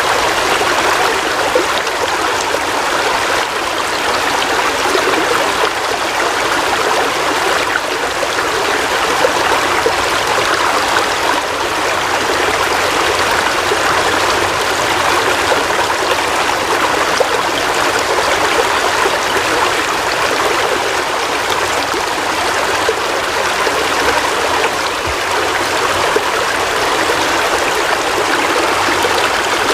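Heavy rain falling steadily: a dense, even hiss of water with no breaks.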